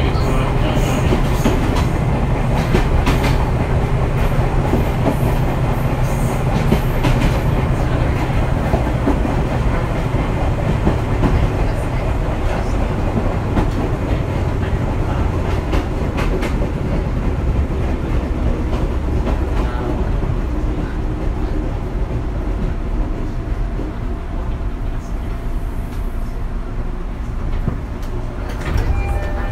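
Fujikyu 6000 series electric train (a converted JR 205 series EMU) running, heard from inside the car: a steady rumble of wheels and running gear with the clickety-clack of rail joints. A low hum underneath fades out about a third of the way in, and the overall sound eases off slightly near the end.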